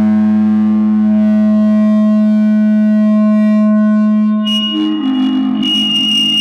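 No-input mixer feedback drone, a two-channel mixer fed back into itself through an effect pedal: a steady buzzy tone rich in overtones. About four and a half seconds in it breaks abruptly into a lower, wavering pitch with a high, piercing whistle on top.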